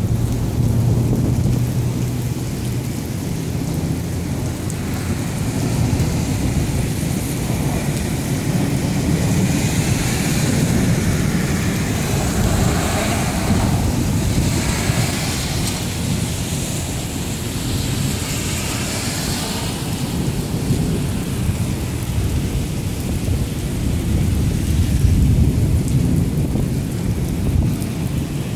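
Thunderstorm: steady rain with thunder rumbling low and long. The rain hiss swells for several seconds in the middle.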